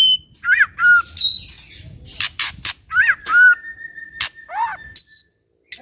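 White-rumped shama (murai batu) singing a fast, varied song: clear whistled notes, looping downslurred phrases and a held whistle, mixed with short harsh rasping notes. The song breaks off briefly near the end.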